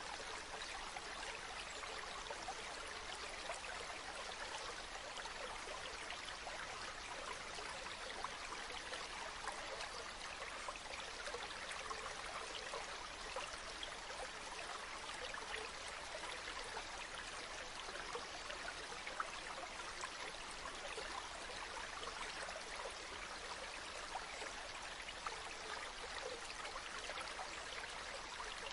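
Waterfall: a steady rush of falling water, with fine splashing throughout.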